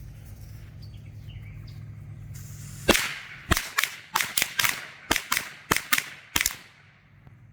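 A pack of Great American Fireworks firecrackers going off: about fourteen sharp bangs in quick, irregular succession, starting about three seconds in, after a low steady rumble.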